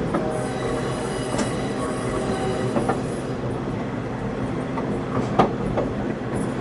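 Passenger train running, heard from aboard: steady rumble of wheels on rail with thin squealing tones from the wheels, and one sharp clank about five seconds in.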